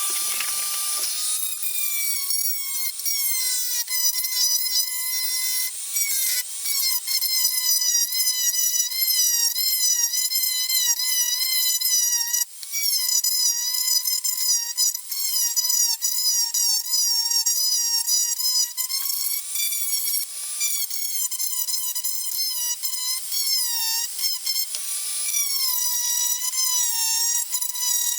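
Small high-speed power tool running, a steady high whine whose pitch keeps dipping and recovering.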